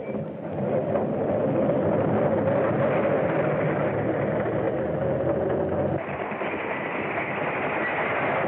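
Steady rumble of a moving train and motor vehicle on an early sound-film track, cutting abruptly to a brighter, hissier rumble about six seconds in.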